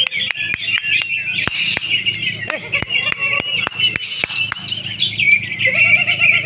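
Several greater green leafbirds (cucak hijau) singing at once in a dense, fast stream of high chirps and warbles, with many sharp clicks scattered through it and a steady low hum beneath.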